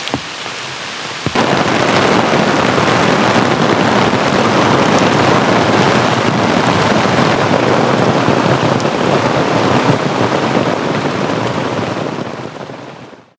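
Heavy rain pouring down in a storm, a dense steady hiss that suddenly gets much louder about a second in and fades away near the end.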